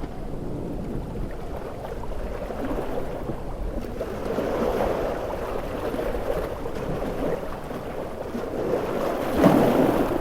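Heavy ocean surf: waves surging in swells, the loudest breaking near the end.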